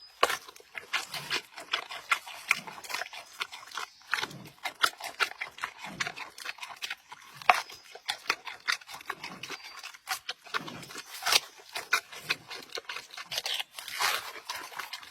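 Giant panda making irregular crunching and snapping clicks, with a few short low grunts or snuffles in between.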